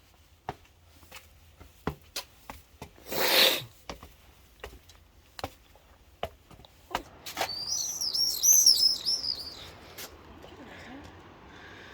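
A small songbird singing a quick run of repeated chirps for about two seconds in the second half, the loudest sound. Before it, scattered sharp clicks and a short loud rush of noise about three seconds in.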